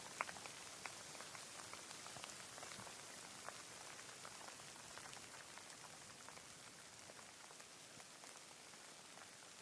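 Rain falling steadily: a quiet, even hiss with scattered sharp ticks of individual drops striking close by, the sharpest just after the start.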